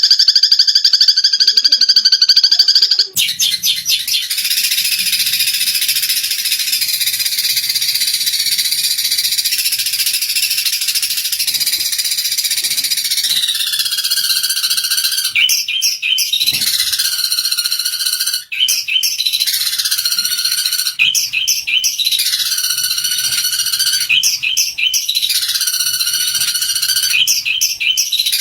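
Eurasian tree sparrows chattering and squabbling in a dense, continuous run of high chirps, louder for the first three seconds. From about halfway, a call that drops in pitch repeats every couple of seconds.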